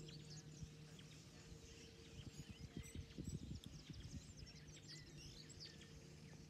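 Faint field ambience of small birds chirping and calling, many short chirps overlapping, over a steady low hum, with a stretch of low rumbling in the middle.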